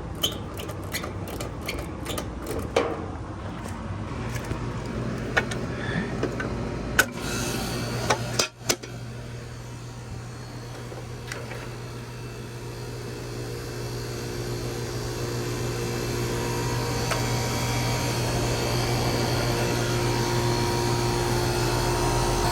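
Goodman split-system air conditioner running while it is charged with refrigerant: a steady hum sets in about four seconds in and the running noise slowly grows louder. Scattered clicks and knocks over the first eight seconds.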